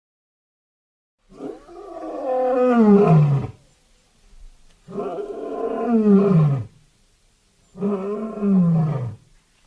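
Three long roars in a demonic female voice, each about two seconds and dropping in pitch at its end, with short pauses between.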